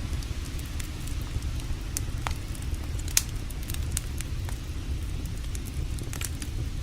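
Wood campfire crackling, with irregular sharp pops and snaps, the loudest about three seconds in, over a steady low rumble.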